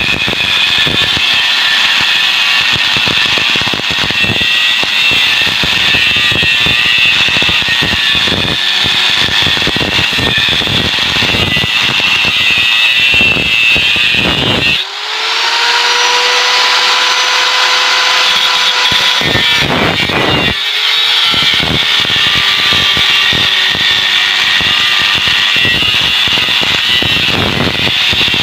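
Angle grinder cutting into the steel shell of a refrigerator compressor, a dense grinding hiss. About halfway through the disc comes off the metal and the motor's whine rises and holds steady for a few seconds. Then it bites into the shell again.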